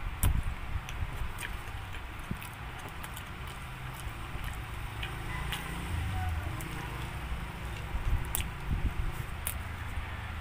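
Close-up chewing and biting of a person eating pizza: irregular wet mouth clicks and smacks, over a steady low rumble.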